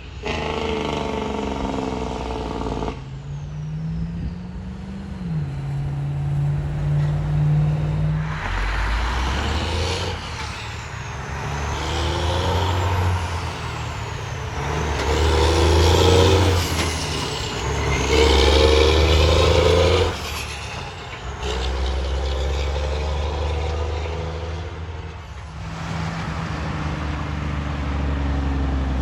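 Heavy diesel trucks driving by, their engines running under load and climbing in pitch as they pull away, in a series of short clips that cut sharply from one to the next.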